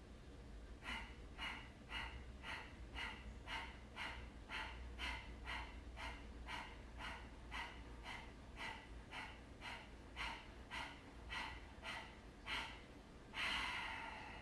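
Kapalabhati breathing: a rapid series of sharp, forceful exhales, about two a second, with each exhale pushed out by a squeeze of the low belly. Near the end comes one longer, louder forceful exhale that closes the round.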